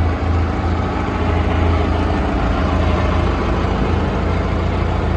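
FPT diesel engine of a Star SCH 60C trailer concrete pump running steadily, with a deep hum that swells and dips a little.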